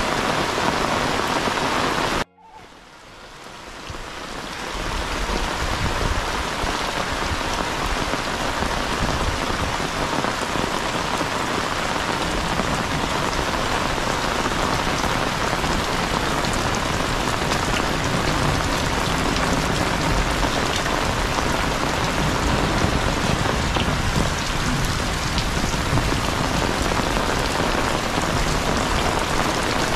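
Heavy rain falling steadily on roofs and ground. About two seconds in, the sound cuts out abruptly and fades back up over the next few seconds.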